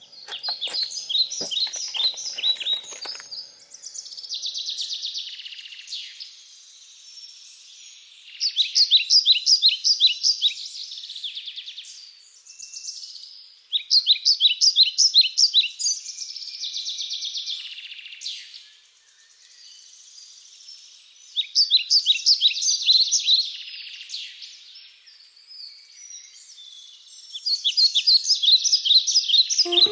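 A songbird singing: phrases of quick, high, repeated notes lasting two or three seconds each, recurring every few seconds with softer chirping between them.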